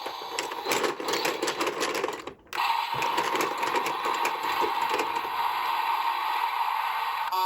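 Rapid clicking and rattling of plastic toy parts being handled, broken by a brief drop out about two seconds in, then a steadier, denser rattling.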